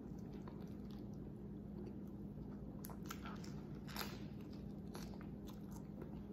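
Close-up mouth sounds of a person biting into and chewing a sandwich, with a few crisp crunches about three to four seconds in.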